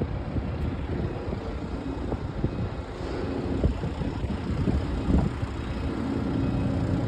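Diesel semi truck idling steadily.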